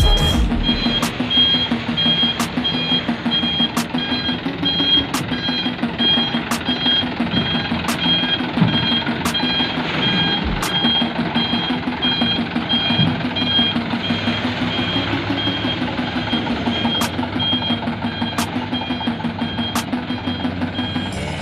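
A truck's reversing alarm beeping over and over, a repeated high tone, over the steady running of a diesel dump truck engine.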